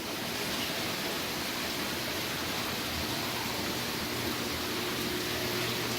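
Steady rushing of circulating water in a saltwater aquarium system, with a faint low pump hum underneath.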